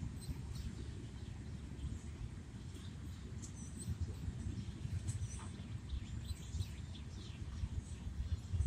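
Small birds chirping now and then, in short high notes over a steady low rumble.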